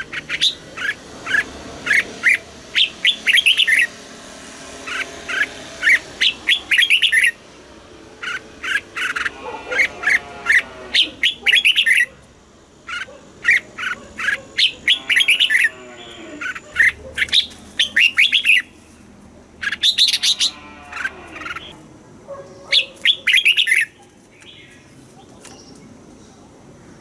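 Red-whiskered bulbul singing: repeated phrases of quick, bright whistled notes a few seconds long, with short pauses between them. Lower, sliding calls sound under the song three times.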